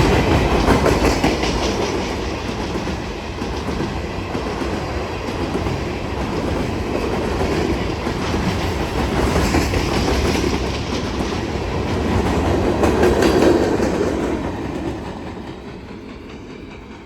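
A long freight train's cars, garbage/C&D cars and stone hoppers, rolling past on the track. The sound dies away over the last couple of seconds.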